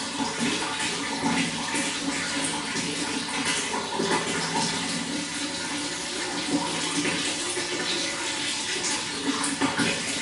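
Running water flowing steadily, an even rush with many small irregular splashes.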